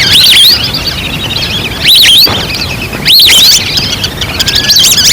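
Recorded wild duck calls played as a hunting lure: bursts of high, arching whistled notes, a few per burst, repeating about every second or two.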